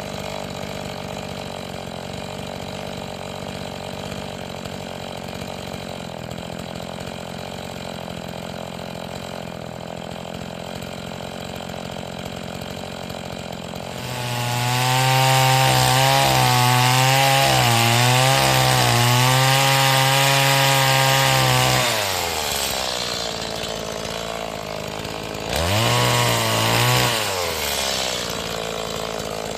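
Stihl MS 180 two-stroke chainsaw, new and being run in, idling steadily, then revving up about halfway through and cutting for about eight seconds, its pitch wavering under load. It drops back to idle, then revs briefly once more near the end before settling to idle again.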